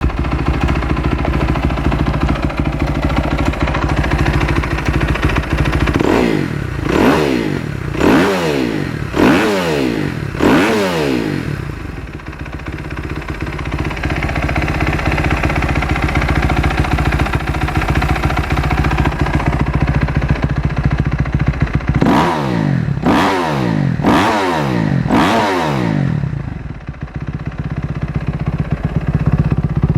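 2008 Kawasaki KX250F's four-stroke single-cylinder engine idling, blipped four times in quick succession a few seconds in and four more times in the second half, each rev rising and falling sharply before settling back to idle.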